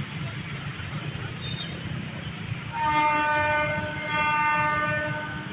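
Train horn sounding two long blasts about halfway in, several notes at once, over a steady low rumble.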